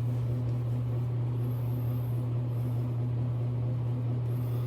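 A steady low hum with a little hiss over it, with no distinct events.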